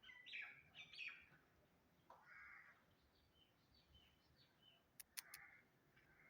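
Birds calling: several harsh calls about half a second each, mixed with short chirps and whistled notes, and two sharp clicks about five seconds in.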